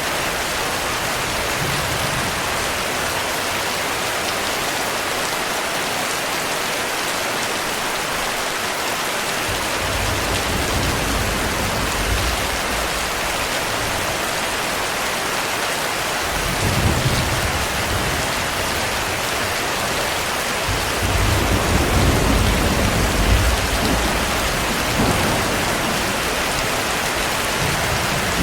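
Steady heavy rain, with low rolls of thunder rumbling in about a third of the way through and again several times later, the strongest in the latter part.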